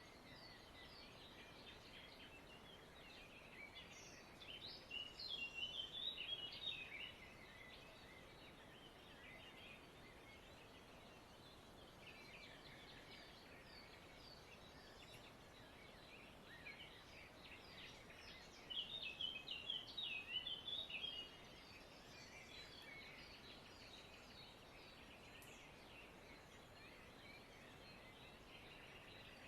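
Many small birds chirping steadily, with two louder bouts of rapid chirping, one about four seconds in and one about nineteen seconds in.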